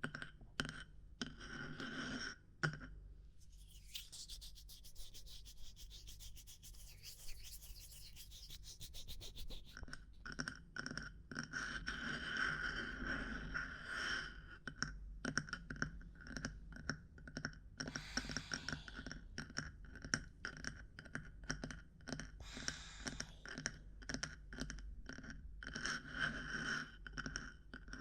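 ASMR tapping and scratching on assorted objects: quick, irregular taps, some of them ringing briefly. From about 4 s to 10 s they give way to a fast, even run of scratching ticks.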